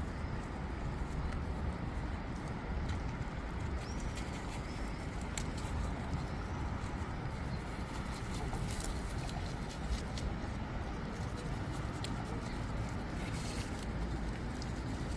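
Outdoor ambience: a steady low rumble with scattered soft clicks and rustles, and a faint bird chirp or two about four seconds in.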